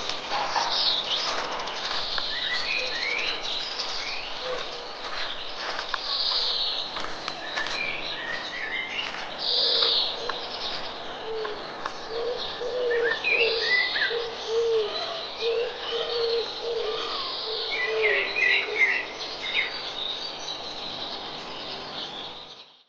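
Wild birds singing and chirping, with many short high calls throughout and a series of low repeated notes through the middle; it cuts off abruptly at the end.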